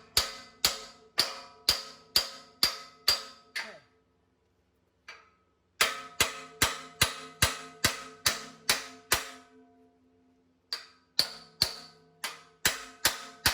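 Hammer blows on steel, about two a second, each strike leaving a metallic ring, in three runs with short pauses between: a new steel tooth being driven into place on a grapple bucket.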